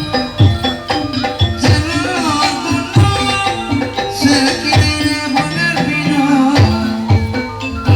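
Kuda lumping ensemble music: hand-played drum strokes beating a steady rhythm under ringing metallophone notes. A wavering melody line rises above it twice.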